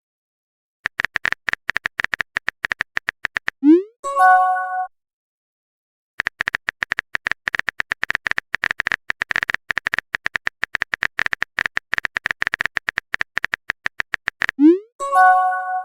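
Typing sound effect of rapid keyboard clicks in two long runs. Each run is followed by a message notification tone: a quick rising swoop and then a short chime.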